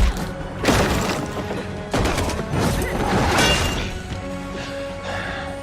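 Dramatic score music with sudden hits and crashes of a fight scene, the sharpest right at the start and again about two seconds in.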